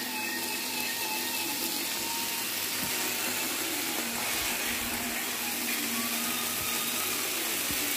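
Chicken and vegetable strips sizzling in a frying pan: a steady hiss with a few faint knocks.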